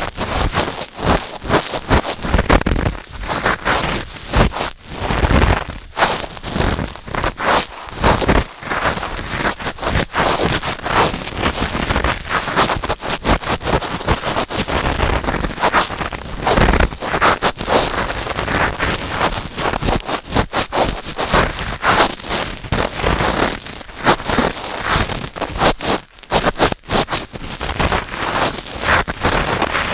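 Cotton swabs rubbing and scraping inside a binaural microphone's ear: a dense, continuous run of close crackling, scratching strokes.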